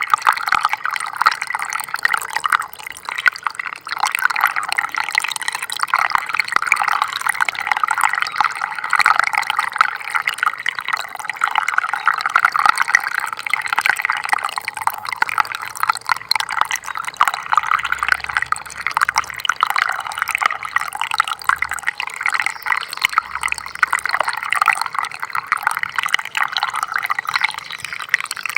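Small stream of water trickling and splashing steadily over stones, a continuous babble of little drips and splashes.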